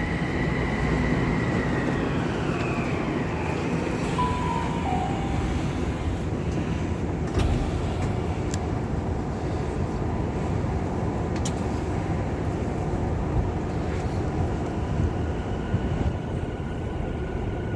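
Tokyu 5050 series (4000 subseries) electric train running with a steady rumble. A high whine fades out over the first two seconds, and there are three sharp clicks partway through.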